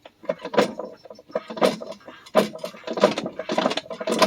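Metal parts of a tractor's front axle clanking and scraping against each other in a string of sharp knocks with a short metallic ring, as a heavy axle part is worked and wiggled into line over its alignment pins.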